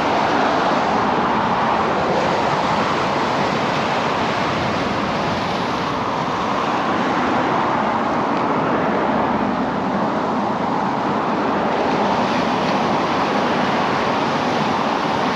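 Steady rushing noise of ocean surf, an even wash that eases and swells only slightly.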